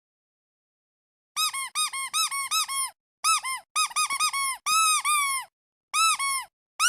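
Rubber duck squeeze toy squeaking in quick runs of short squeaks, each rising and falling in pitch, after about a second and a half of silence.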